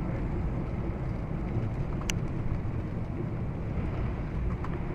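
A vehicle driving: a steady low rumble of engine and road noise, with one short click about two seconds in.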